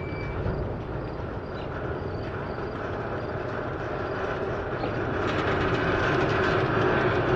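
Double-stack intermodal freight train's well cars rolling slowly past, with a steady rumble of wheels on rail. It gets louder about five seconds in, when a steady hum joins.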